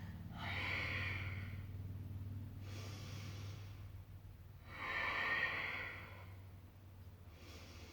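A woman breathing audibly, with three long breaths in and out, paced to slow exercise lifts. A steady low hum runs underneath.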